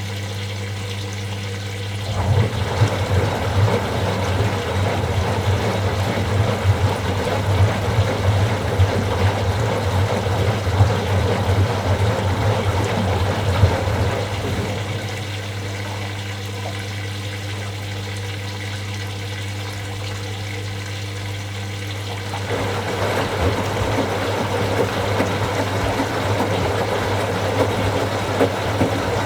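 Washing machine in its wash cycle: water and laundry sloshing in the turning drum over a steady low hum. The sloshing stops about halfway through, leaving the hum alone, and starts again about three-quarters of the way through.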